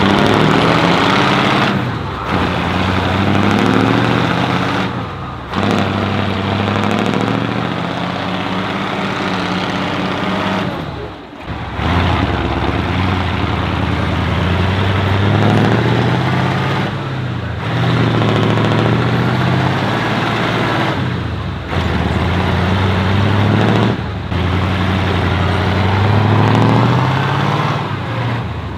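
Engines of heavy off-road trial trucks revving and labouring, their pitch rising and falling with the throttle. The sound comes in several stretches that break off suddenly.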